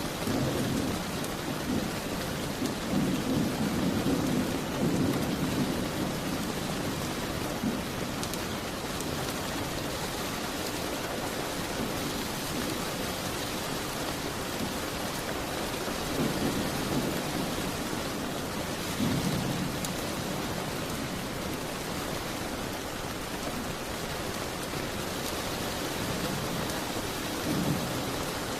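Steady heavy rain, a dense even hiss, with low rumbles of thunder swelling up and fading: a long one over the first several seconds and shorter ones about halfway through and near the end.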